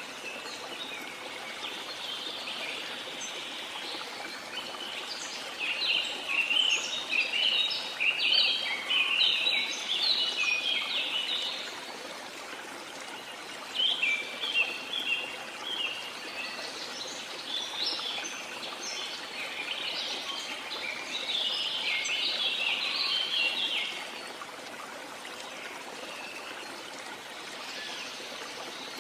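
Steady rush of a waterfall, with songbirds chirping busily over it in two long bouts, from about five seconds in and again from about fourteen seconds in, before the water carries on alone near the end.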